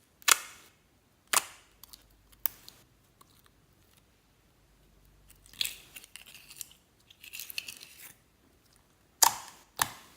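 Slime being handled: sharp, loud clicking pops, three in the first few seconds and two close together near the end, with a stretch of soft crackling and squishing in the middle.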